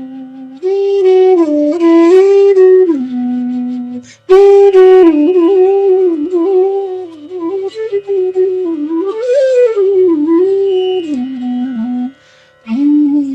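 Bansuri, the North Indian bamboo flute, playing a slow, ornamented raga melody with bends and glides between notes. The phrases break for breath twice, about four seconds in and near the end, over a faint steady drone.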